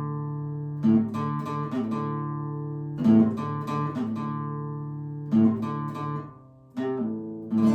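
Guitar strumming slow chords for a song's outro, a chord struck about every two seconds and left to ring.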